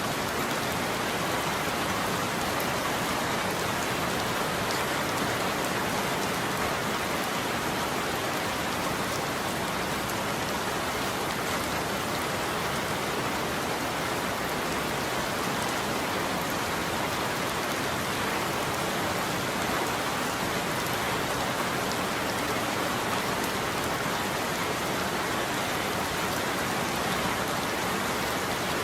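Steady rain falling on a roof, an even hiss of drops with no change in strength.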